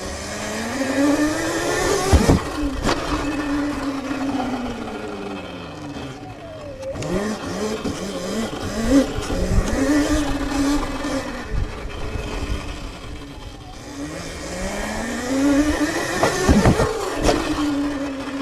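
Sur-Ron electric dirt bike's motor whining, rising in pitch as it speeds up, holding, then falling as it slows, three times over. A few sharp thumps and wind noise ride along with it.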